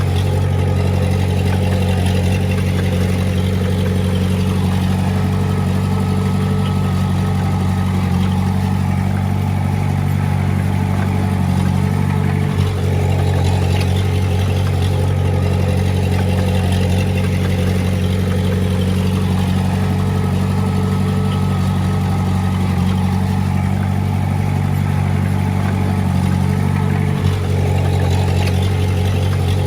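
Komatsu D20A bulldozer's diesel engine running steadily, with two brief dips in the sound, one a little before the middle and one near the end.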